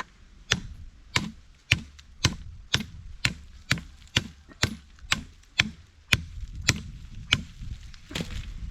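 Steady chopping into wood with a blade: about fifteen sharp strokes, roughly two a second.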